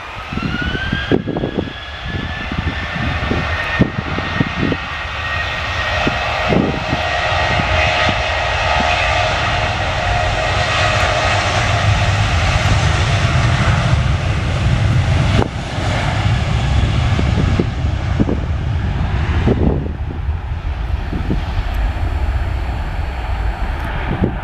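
Jet airliner engines: a whine rises in pitch in the first second, then holds steady over a heavy, loud rumble that lasts throughout, as with engines spooling up to take-off power. Scattered short thumps are heard, most of them in the first few seconds.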